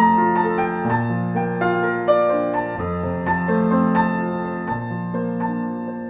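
Slow, gentle instrumental piano music, notes sounding one after another over held bass notes.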